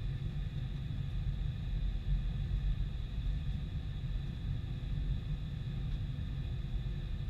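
Steady low rumble of a Boeing 747-400 airliner's engines, with a faint steady high tone above it.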